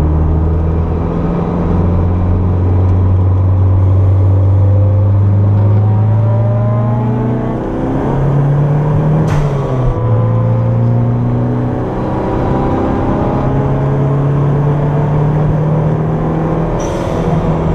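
Turbocharged Toyota MR2 engine pulling hard, heard from inside the cabin. Its pitch climbs steadily and drops briefly at gear changes about eight and twelve seconds in. Two short sharp sounds cut across it, one near the middle and one near the end.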